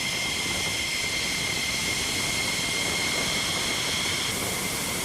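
Jet aircraft engine running steadily: an even rushing noise with a constant high whine.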